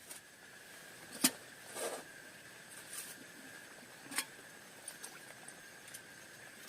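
A few sharp, scattered taps and a brief rustle over a faint steady hiss, with a thin steady tone underneath.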